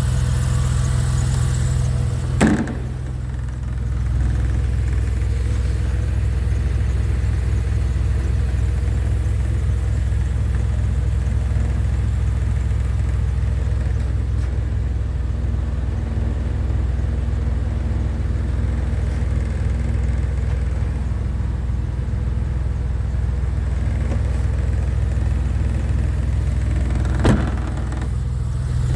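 Porsche 996 911 Carrera's 3.4-litre water-cooled flat-six idling steadily. Two sharp knocks break in, one about two and a half seconds in and one near the end.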